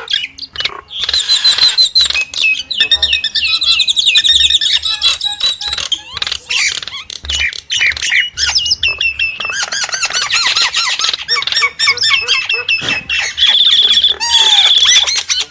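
Nias starling singing a long, varied song of whistled glides, rapid chattering runs and harsh squawky notes, ending in a steady high trill.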